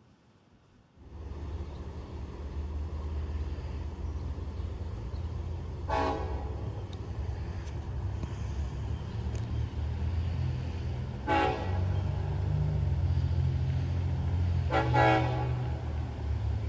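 Diesel train running with a steady low engine rumble that starts about a second in, sounding its horn in three short blasts spaced a few seconds apart.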